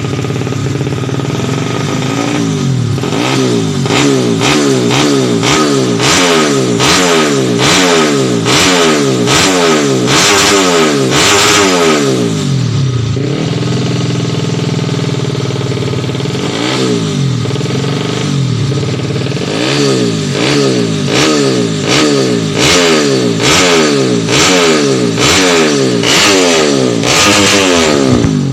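Stock underbone motorcycle engine being revved in quick repeated throttle blips, each rising and falling back, about one a second, in two runs with a short spell near idle in between.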